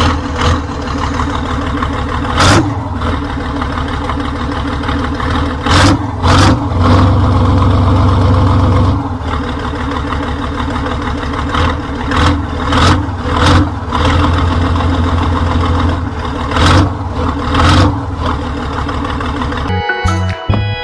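Toy RC truck running: a steady mechanical drone with repeated short loud surges, as if revving.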